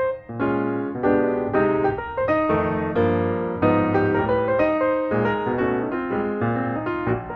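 Piano music: intro music playing chords and melody notes at a moderate pace.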